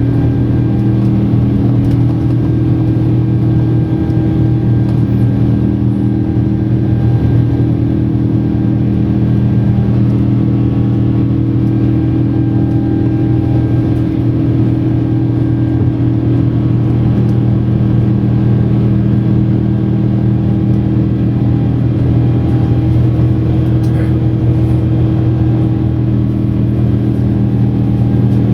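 Steady drone of an airliner cabin in flight, Boeing 787-9: engine and air-flow noise with a few constant hum tones, unchanging in pitch and level.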